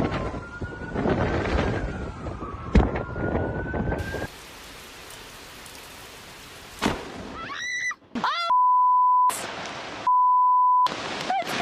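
Loud storm noise of wind and rain with a single sharp crack about three seconds in. It cuts to a quieter steady hiss, and later come two steady beeps at one high pitch, each a little under a second long.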